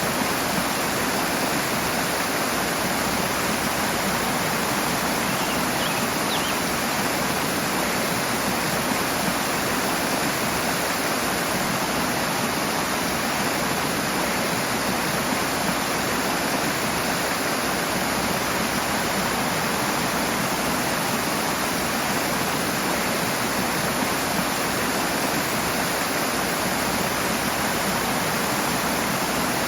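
Rushing water, a steady loud rush of a fast stream or small waterfall without break or change.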